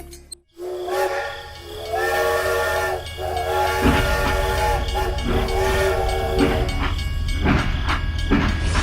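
Train whistle blowing several blasts, a chord of steady tones, the later blasts longer; a low rumble joins about four seconds in.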